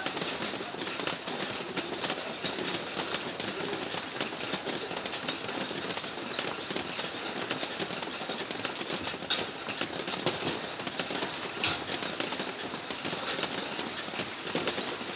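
Steady rain falling, with scattered drops ticking sharply on a nearby surface.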